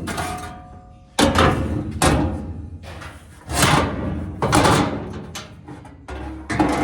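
Irregular heavy clanks and thuds of sheet-metal floor panels being handled and knocked into place, about six over a few seconds. Each hit rings briefly and dies away over about a second.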